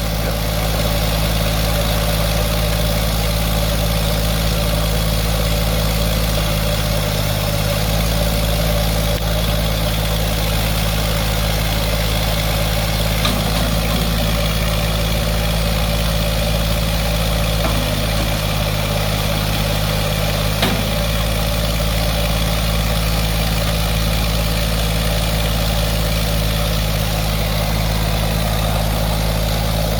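Massey Ferguson GC2300 compact tractor's diesel engine idling steadily, with a few light clicks near the middle.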